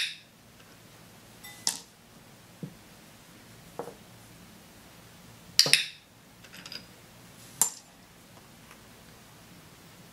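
A training clicker clicking now and then among light clinks and taps of small hard toys and reward jewels on a tabletop. The sounds are short and scattered: a few sharp, loud ones and some fainter ones between them.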